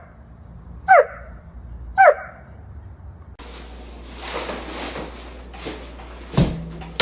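A dog barking twice, about a second apart, short single barks. Then a steady hiss with a sharp knock near the end.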